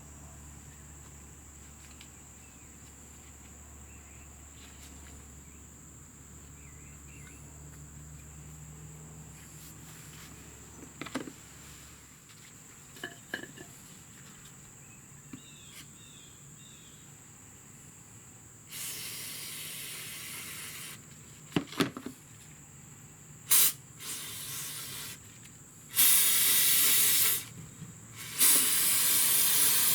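Aerosol can of non-chlorinated brake cleaner spraying in four hissing bursts of a second or two each, starting about two-thirds of the way through, with a few sharp clicks and knocks before them.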